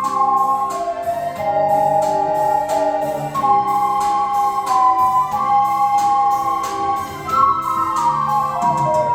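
An ocarina ensemble playing a slow melody in two parts, with pure, sustained flute-like tones, over an accompaniment of low held chords and a steady beat.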